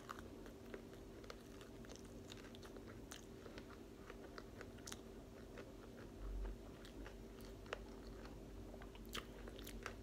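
Close-up chewing and biting of caramelized sweet potato on a skewer (kamote cue): soft, wet mouth clicks and smacks scattered throughout, over a steady low hum. There is a brief low thud about six seconds in.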